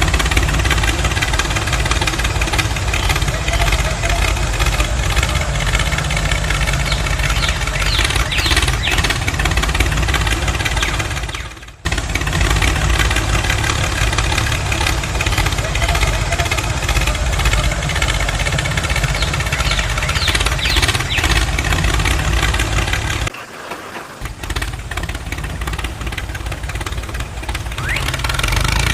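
Engine sound of a DIY miniature tractor running steadily with many overtones, rising in a short whine twice. It breaks off abruptly about twelve seconds in, then drops to a quieter level about three quarters of the way through before building up again near the end.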